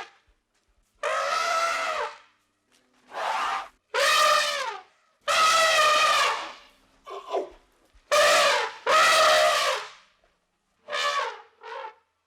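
An animal calling over and over: about nine loud pitched calls, each up to a second long and many arching up then down in pitch, with short silences between.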